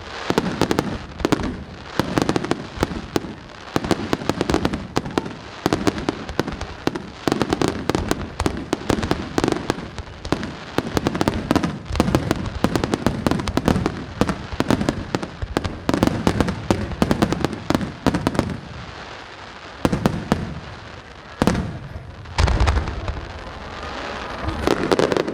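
Aerial fireworks display: a dense run of rapid bangs and crackling for about eighteen seconds, then a short lull and a few separate deep booms.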